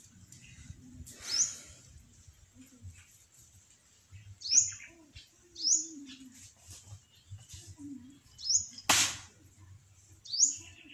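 A bird giving short, high, upward-sweeping chirps, repeated every second or so, with one sharp knock about nine seconds in.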